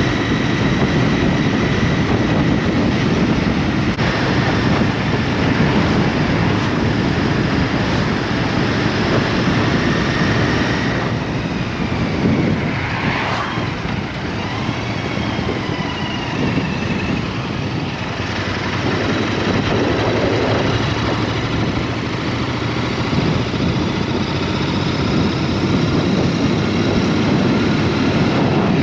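Wind rush over the microphone and a small motorbike engine running steadily while riding on the road.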